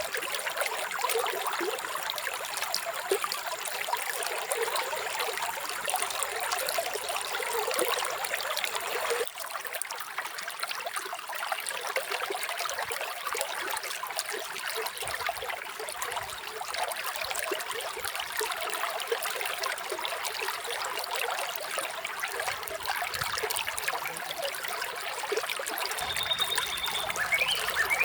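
Running water trickling and splashing steadily, like a small stream, with the sound shifting slightly lower in level about nine seconds in. Near the end a bird gives a short high note, then a few quick chirps.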